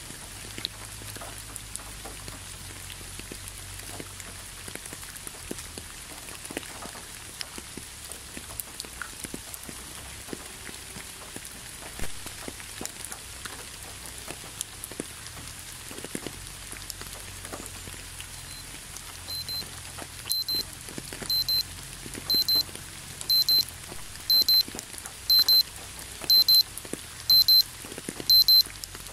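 Steady rain falling on a leafy road, with scattered drops ticking. About two thirds of the way in, a gentle electronic alarm starts beeping about once a second, a high short beep that grows louder with each repeat.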